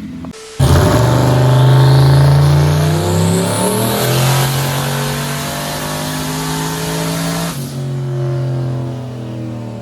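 Turbocharged 5.3-litre LS V8 running hard under load on a chassis dyno. It comes in suddenly about half a second in, with a turbo whistle rising in pitch. The loud pull stops abruptly after about seven seconds, leaving the engine running more quietly and steadily.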